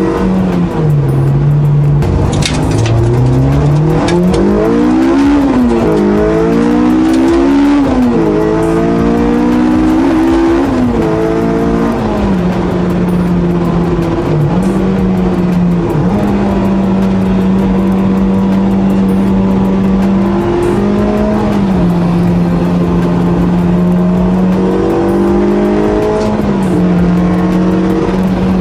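Honda Integra Type R's K20 four-cylinder engine pulling hard. It revs up and drops back several times through gear changes, then runs at steady high revs with a few brief dips.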